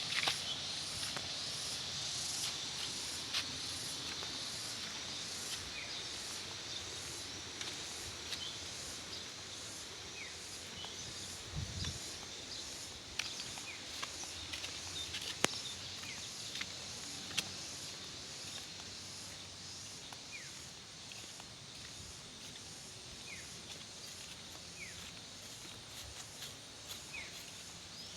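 Rice-field nature ambience: a steady, high-pitched insect chorus that slowly fades, with scattered short downward chirps and a few sharp clicks.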